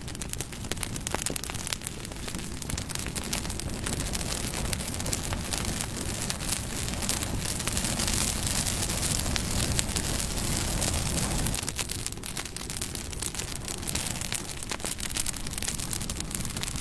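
Wood fire burning, crackling with frequent sharp pops over a steady hiss and low rumble, swelling louder through the middle.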